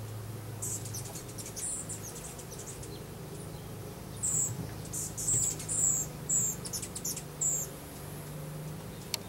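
A small bird chirping: a run of short, high chirps, faint at first and louder in the second half, about two a second.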